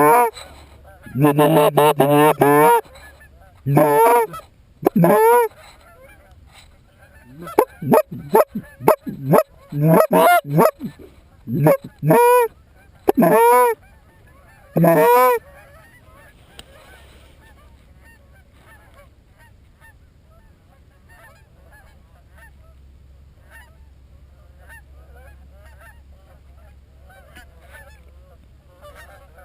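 Goose honking: a rapid series of loud honks and clucks through the first half, breaking off at about fifteen seconds, after which only faint, scattered goose calls remain.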